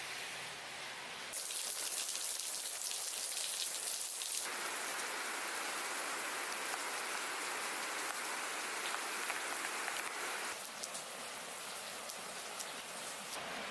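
Rain falling steadily, louder from about a second in and a little softer again near the end.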